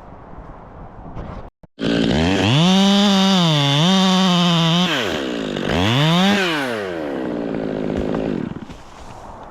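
Two-stroke chainsaw revved to full throttle, its pitch dipping once under load, then let back down. It revs up a second time and drops to a lower running speed, fading out near the end.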